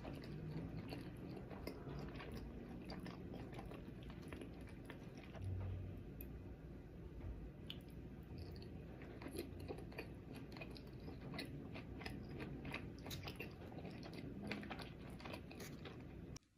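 Close-miked chewing of sushi, a steady run of wet smacking and small clicks from the mouth. It cuts off abruptly near the end.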